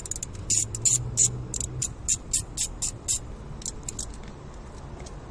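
Ratchet wrench clicking in a quick run, about three to four sharp metallic clicks a second, thinning out near the end, over a steady low hum.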